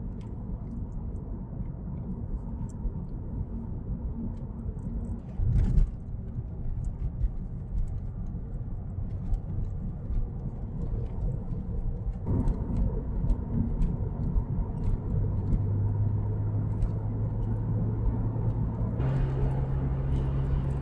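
Porsche 996's flat-six engine and road noise as the car is driven, with a single thump about five seconds in. In the second half a steady engine tone comes up and steps higher in pitch near the end.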